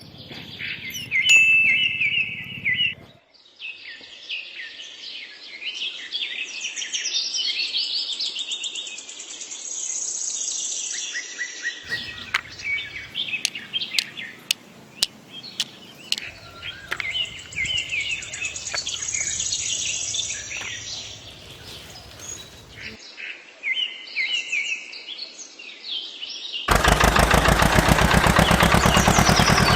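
Songbirds chirping and trilling, with many short calls overlapping. About 27 s in, a loud, rapidly pulsing engine-like running sound starts and covers the birds.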